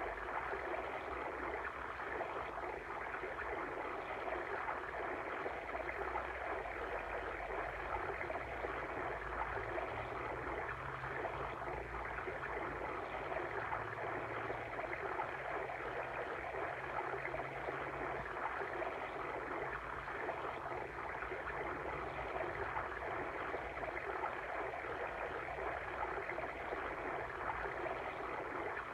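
Steady rushing and babbling of a flowing water stream, used as an ambient background track.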